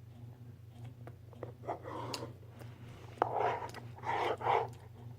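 Someone chewing and biting food, most likely a slice of pizza, with irregular wet clicks and a few short bursts of chewing.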